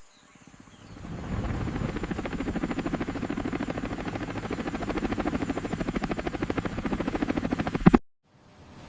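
A rapid, even mechanical pulsing that fades in after about a second, holds steady, and cuts off abruptly with a sharp click near the end.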